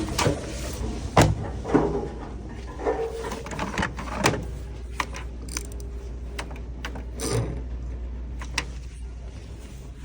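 Scattered clicks and knocks, a few of them sharp, over a steady low hum.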